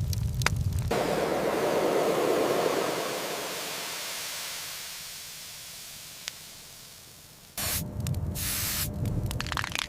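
A loud rushing hiss that starts suddenly about a second in and fades away steadily over about six seconds. Low rumbling with clicks is heard before it and cuts back in abruptly near the end.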